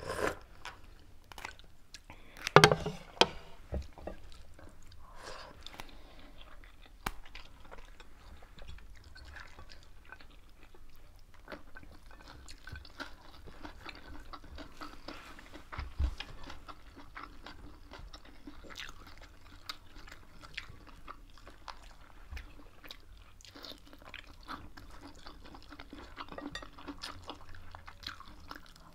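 Close-miked eating sounds of two people: wet chewing, lip smacks and crunching of rice, pork and raw leafy vegetables, with many small clicks. A louder burst comes about two and a half seconds in, and a sharp knock near sixteen seconds.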